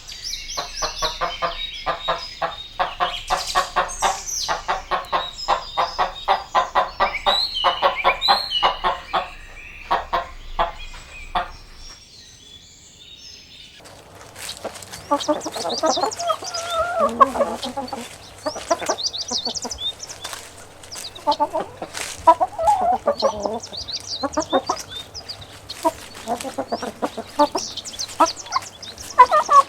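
Chickens clucking in fast runs, with high chirping over them. About twelve seconds in it goes quiet for a couple of seconds, then lower, drawn-out clucking calls carry on to the end.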